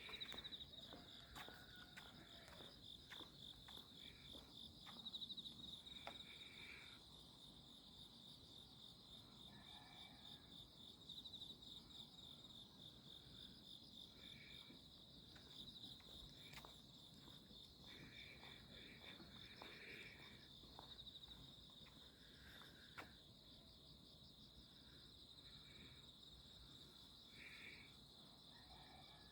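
Faint chorus of night insects: a continuous, fast-pulsing high trill, with shorter chirps from other insects coming in and out at a lower pitch.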